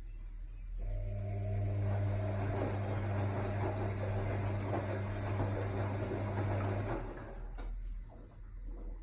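AEG Lavamat L62850L washing machine's motor turning the drum in the wash cycle: a steady hum with splashing laundry starts about a second in and stops after about six seconds. A sharp click follows shortly after it stops.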